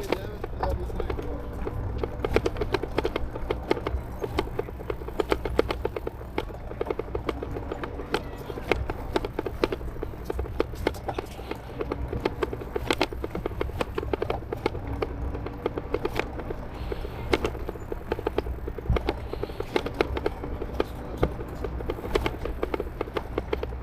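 Riding an e-bike over paving: a constant rapid clatter of small bumps and rattles, over a low wind rumble, with a faint steady motor whine that comes and goes.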